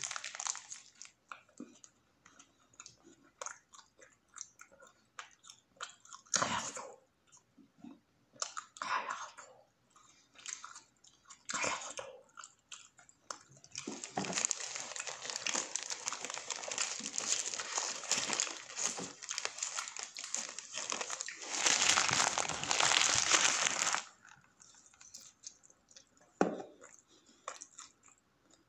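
Close-miked biting and chewing of a spicy footlong wrap, with crunchy mouth sounds coming in short clusters. About halfway through comes a dense stretch of crinkling from the paper wrapper being handled, loudest shortly before it stops suddenly, after which the quieter chewing returns.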